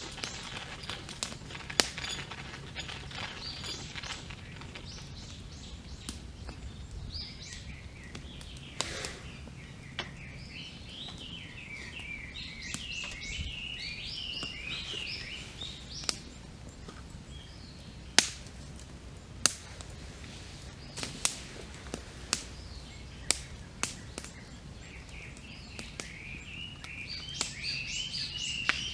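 Wood campfire crackling, with sharp pops scattered throughout that are the loudest sounds. Songbirds sing in quick twittering phrases through the middle and again near the end.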